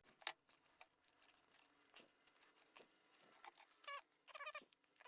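Faint clicks from small parts being handled, with two short squeaks near the end.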